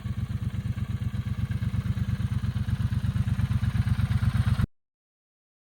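A motorcycle engine running with a rapid, even beat, growing slightly louder before it cuts off abruptly near the end.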